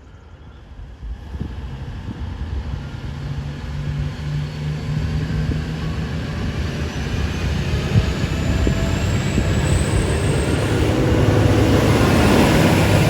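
A diesel train approaching and growing steadily louder, its engine humming low, with a faint high whine rising in pitch as it draws near. The wheel and engine noise peaks near the end.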